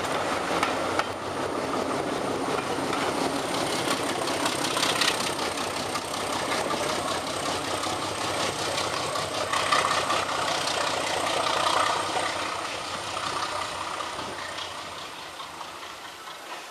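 Class 37 diesel locomotive at the rear of a departing train, its engine making a racket, fading away over the last few seconds as the train draws off.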